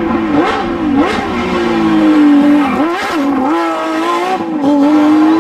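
Porsche 911 GT3 RS rally car's flat-six engine at high revs. Its pitch dips and climbs back several times in the first three seconds, then holds high and steady.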